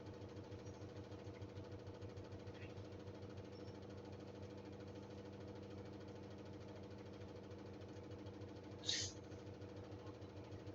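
Samsung washing machine spinning a load of bedding at high speed in its final spin, a steady hum with a fine even pulse and no change in pitch. A brief, sharp, high-pitched noise cuts in about nine seconds in.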